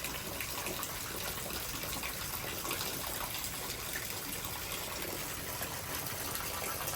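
Steady rain pouring down in a thunderstorm, an even hiss that holds level throughout.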